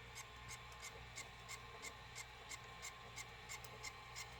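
Sony SLV-575UC VCR's pinch roller shaft making a faint, rhythmic grinding scrape, about three strokes a second, over the steady hum of the tape transport while playing. The noise comes from a bad pinch roller shaft, a common failure in these models.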